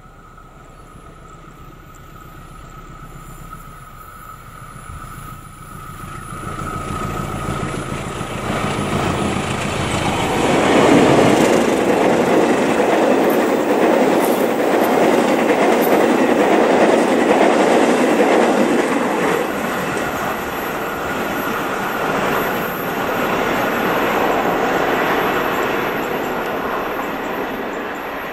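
A diesel-electric locomotive hauling a passenger train approaches with a high steady whine and an engine drone that grow louder. It passes at close range, and then the coaches roll by with loud wheel-on-rail noise, easing off slightly near the end as the train moves away.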